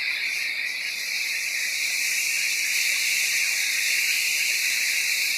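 Heavy rain pouring down in a storm, a steady, even hiss.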